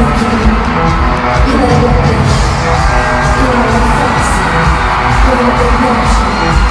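Live pop concert music played loud through an arena PA, heard from among the audience: a sung dance-pop track over a heavy steady beat, with crowd yells mixed in.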